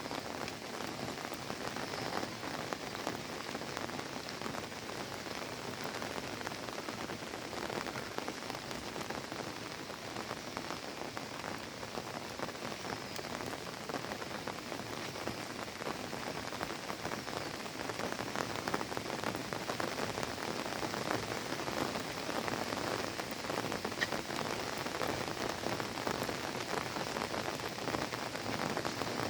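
Steady rain falling and pattering on surfaces, a dense hiss of countless small drops, getting a little heavier past the halfway point.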